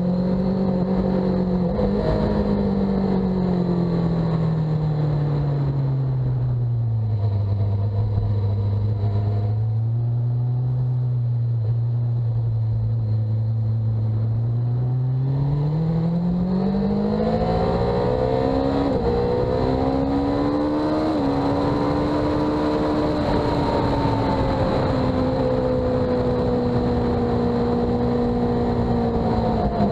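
Sportbike engine on track. The revs ease off and fall over several seconds, run low for a while, then climb back up about halfway through and hold high, with air noise rising as the speed builds.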